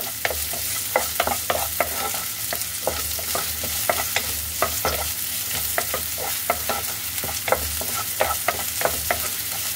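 Chopped ginger, garlic, green chilli, onion and capsicum sizzling in hot oil in a nonstick kadhai. A spatula stirs and scrapes them, knocking lightly against the pan several times a second.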